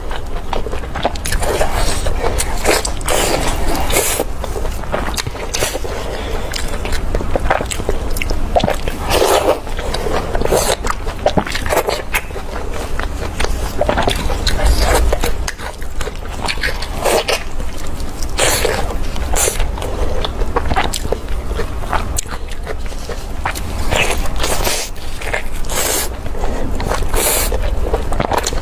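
A person chewing and biting food close to the microphone, with many irregular short clicks and smacks over a steady low hum.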